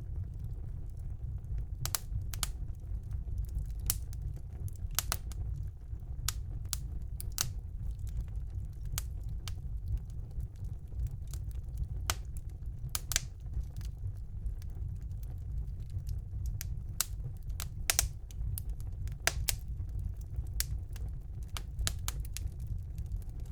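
Wood fire burning in a fireplace: a steady low rumble of the flames with sharp, irregular crackles and pops of the burning logs.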